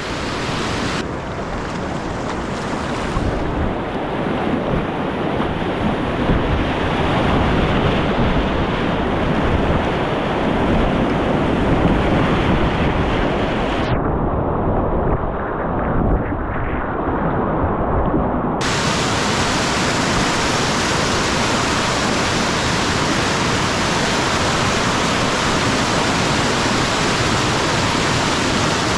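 Steady rushing of whitewater in a creek's rapids.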